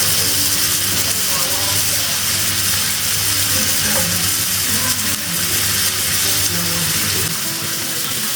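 Pieces of seasoned pork sizzling steadily as they fry in a little butter in a hot pot, with background music playing underneath.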